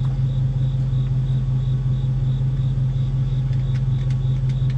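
Steady low machine hum, unchanging throughout, with a few faint light clicks near the end.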